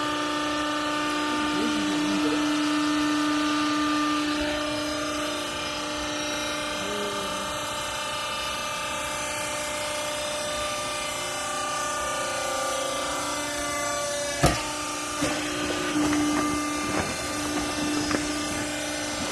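Hydraulic baler's power pack running with a steady humming whine made of several held tones. A sharp knock comes about two-thirds of the way in, followed by a few lighter knocks.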